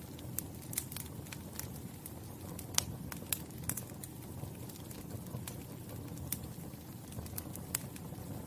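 Wood fire crackling: a steady low rumble with sharp pops and snaps at irregular intervals, the loudest a little under three seconds in.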